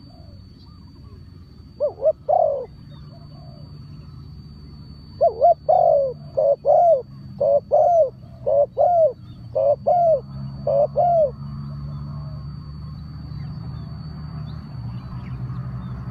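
A bird calling in short, repeated arched notes: a brief pair near the start, then a longer run of about a dozen notes in the middle. A steady low hum lies beneath and grows louder toward the end.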